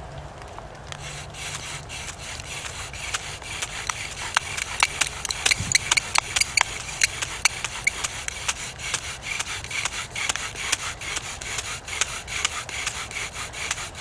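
Bow drill in use: the bow is sawed quickly back and forth, spinning a wooden spindle against a fireboard in an even rhythm of rubbing strokes. It starts about a second in and grows louder. This is the friction drilling that builds an ember.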